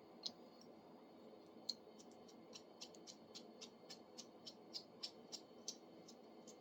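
Faint, light metallic clicks, about three or four a second, starting a couple of seconds in, from a small pipe wrench being worked by hand as its adjusting nut is turned to run the jaw out.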